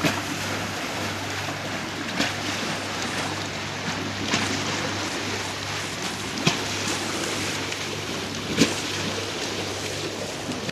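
Water rushing through a turning Archimedes screw hydro turbine, over a steady low hum, with a knock or splash about every two seconds as the screw turns.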